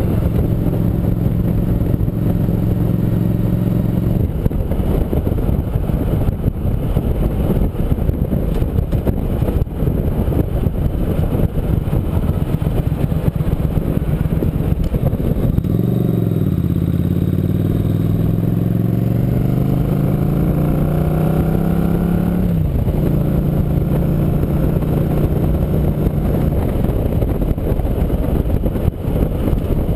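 Motorcycle engine running under way, with a heavy rush of wind on the microphone. About halfway through, the engine note dips, then climbs steadily for several seconds as the bike accelerates, and drops suddenly with a gear change.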